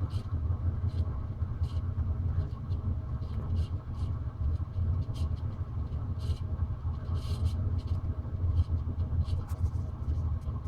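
1991 PCI-made 42-inch bottom-mount spinner ceiling fan running with a steady low hum and scattered faint ticks, over the rumble of a furnace running in the background. The fan has pretty bad bearing noise.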